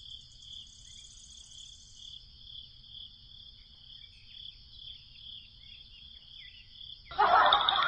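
Insects trilling steadily, a high, pulsing chirr that swells about twice a second, with a fainter higher buzz early on. A louder rasping noise cuts in near the end.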